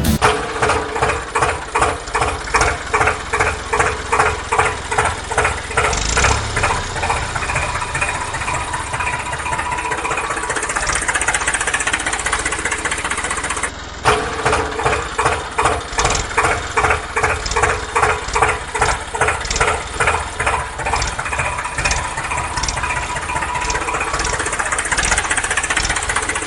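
Tractor engine chugging in regular beats that quicken and smooth out into a steady run. It cuts off briefly about halfway through, then starts over in the same pattern, like a looped clip.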